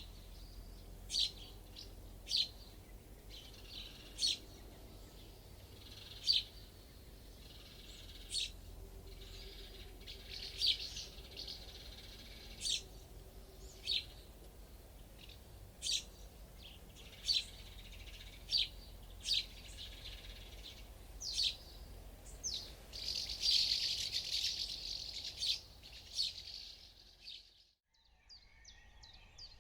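Wild birds calling: short, sharp chirps repeated every second or two, with a busier stretch of song a little over two thirds of the way through. Near the end the sound briefly drops out and a different, rapid trill of calls begins.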